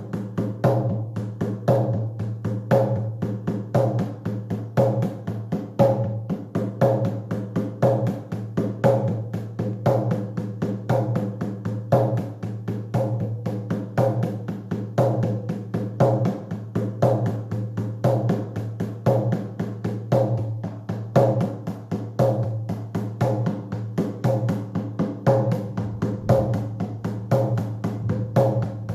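Shamanic journey drumming: a hand drum beaten in a steady, fast, unbroken rhythm of about four beats a second, its low tone ringing on between strikes.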